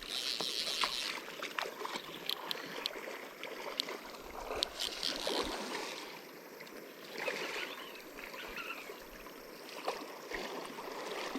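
River water splashing and trickling, with scattered light clicks and knocks and brief brighter splashes near the start and about five seconds in.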